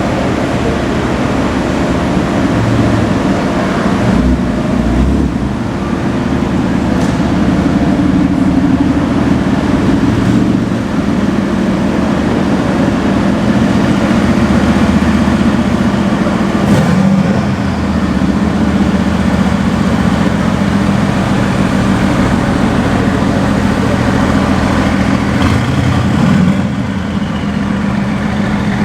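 Car engine idling loudly with a steady low rumble, its pitch drifting a little but with no sharp revs.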